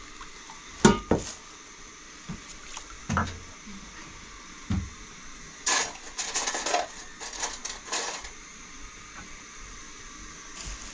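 A few sharp knocks and thuds, then a couple of seconds of scraping and rustling, over a steady background hiss.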